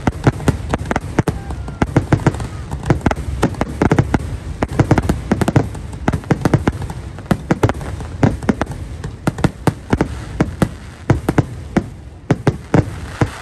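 Fireworks barrage: many aerial shells bursting in quick, overlapping booms and crackles, several a second, loud throughout, then stopping abruptly at the end, which marks the close of the show's finale.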